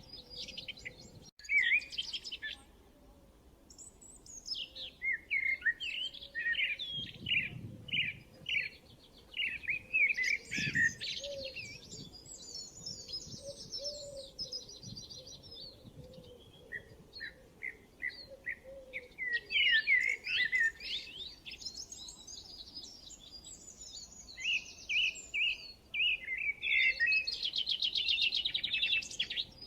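Birdsong from several birds at once: quick high chirps, whistled phrases and trills overlapping, with a fast buzzy trill near the end.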